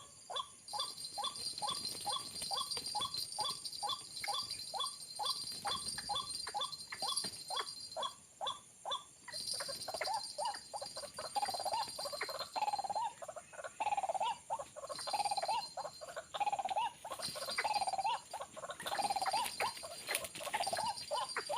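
White-breasted waterhen calling. First comes a fast run of short repeated notes, about three a second. About nine seconds in it changes to slower, longer gurgling phrases roughly once a second. A steady high-pitched buzzing runs in the background.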